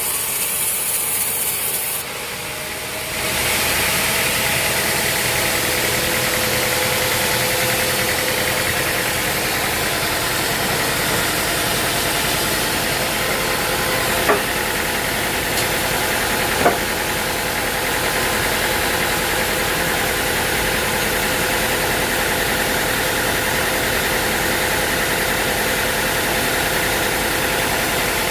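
A sawmill's engine running steadily, with a change in the sound about two to three seconds in and two sharp knocks in the middle.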